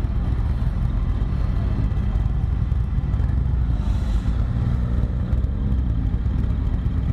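Yamaha XT 600E's air-cooled single-cylinder four-stroke engine running steadily while the bike is ridden, a continuous low rumble.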